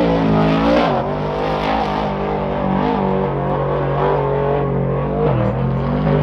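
An engine running close by at a steady speed, its pitch dipping briefly about a second in and again near the end.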